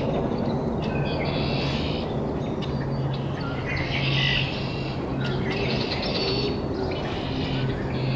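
Songbird chirping in short high-pitched bursts, about four phrases a second or two apart, over a steady low hum.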